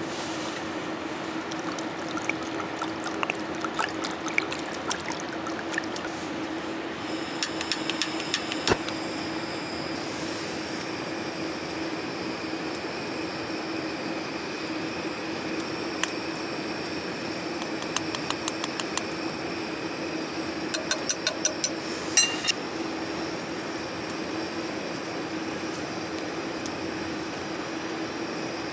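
Steady rain falling, an even hiss with scattered light taps and clinks. A low steady hum runs under it.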